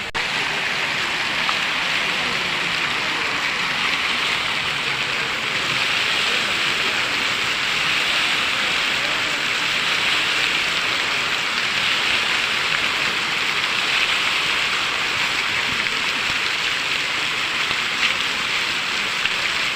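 Fountain water jets spraying and splashing down into the basin: a steady, even hiss of falling water.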